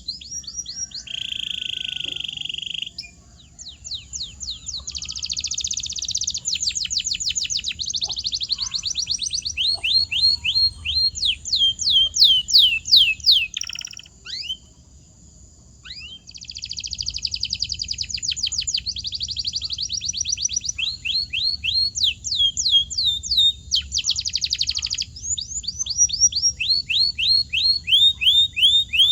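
Domestic canary singing in rapid runs of repeated, sharply falling whistled notes, with a buzzy held note near the start. The song breaks off briefly a few seconds in and again about halfway.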